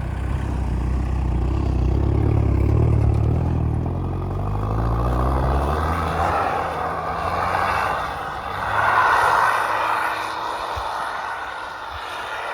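Mitsubishi L200 pickup's engine pulling under load, its low drone strong for the first half and then easing. A noisier sound of tyres churning through frozen snow then takes over, loudest about nine seconds in.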